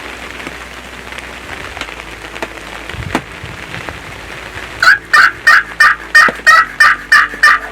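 Hunter's turkey call sounding a run of about ten loud, evenly spaced yelps, roughly three a second, starting about five seconds in: hen talk meant to draw roosted gobblers in.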